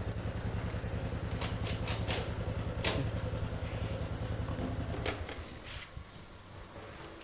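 Small motorcycle engine running at low speed with a fast, even pulse as the bike rolls in, then switched off about five seconds in. There is a short sharp click near the three-second mark.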